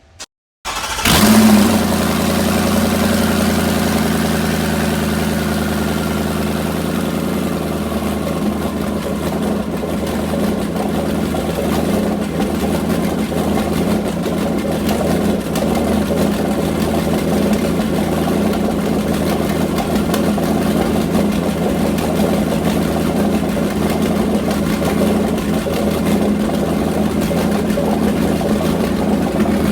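Nissan GT-R engine cold start: it catches about a second in, flares briefly, then settles into a steady fast idle. A faint whine slowly drops in pitch over the first several seconds as the idle settles.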